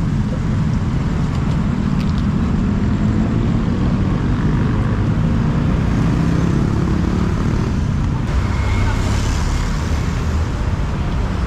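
Steady low rumble of a motor vehicle running, with road-traffic noise, and a brief hiss about eight seconds in.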